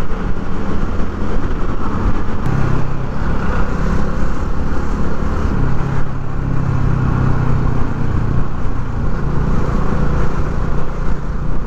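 Yamaha Lagenda 115ZR moped's single-cylinder engine running under way in third gear through slow traffic, with wind and road noise. The engine note is strongest and steadiest from about two and a half seconds in to about eight and a half seconds in.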